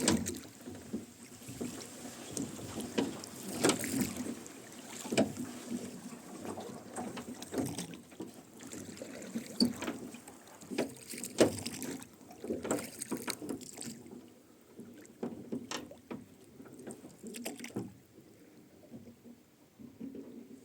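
Rowing boat under oars: oarlocks creaking and knocking and the blades splashing, stroke after stroke, quieter in the last several seconds.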